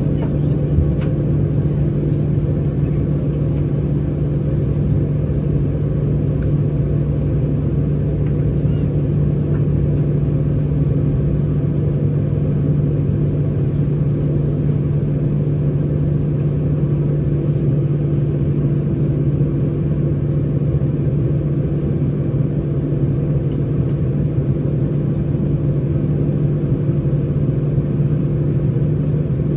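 Airbus A319 cabin drone from its CFM56 engines running at idle before takeoff: a steady, even low hum with no change in pitch.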